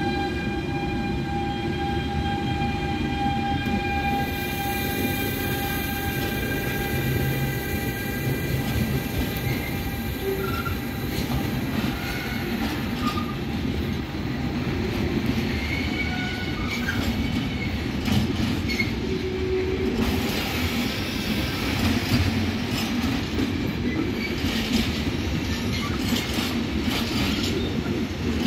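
Container freight train rolling through a rail terminal: a steady rumble of wheels on rail, with clicks from rail joints and short wheel squeals in the second half. A steady multi-tone sound runs through the first few seconds and fades out.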